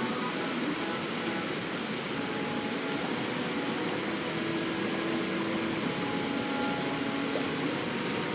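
Steady rushing of a river flowing past.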